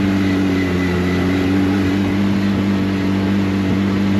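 Off-road 4x4's engine running hard at steady, held revs under load as the truck climbs.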